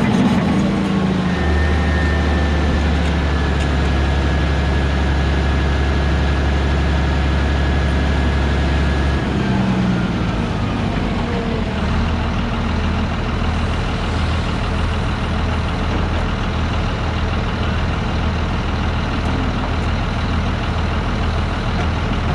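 Heavy diesel earthmoving machinery running. A deep engine drone holds steady for several seconds, then eases off about nine seconds in. A thin high whine above it slides down as it does, and the engine carries on at a lower, pulsing note.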